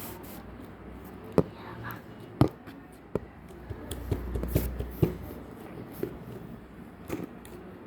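Hands squeezing and working slime, with several sharp pops, the loudest about one and a half and two and a half seconds in, and a cluster of smaller ones around four to five seconds in.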